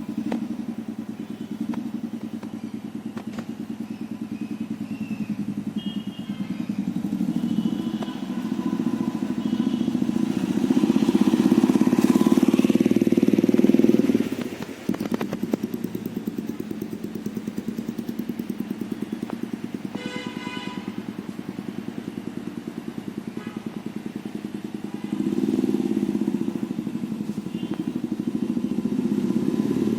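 The single-cylinder engine of a Royal Enfield Classic 350 runs through a Globe Wild Boar aftermarket silencer, giving a steady, bassy thumping exhaust beat. The beat grows louder about a third of the way in, drops off sharply around the middle, and swells again near the end.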